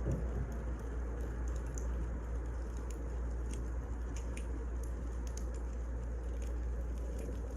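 Wood fire burning: a steady low rumble with many small, irregular crackles and pops.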